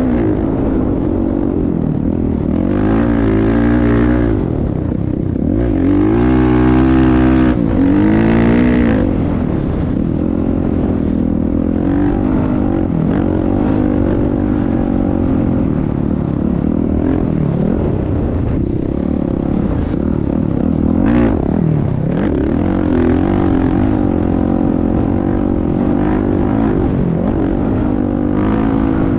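Motocross bike engines running and revving, the pitch rising and falling again and again, loudest in stretches about three and seven seconds in.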